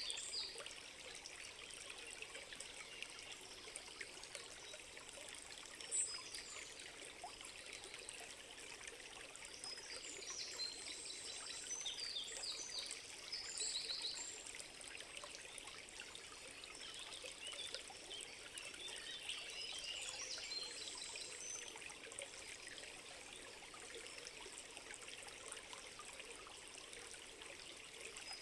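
A small stream trickling and splashing steadily, with birds chirping in high, quick phrases now and then. There is a single sharp click about six seconds in.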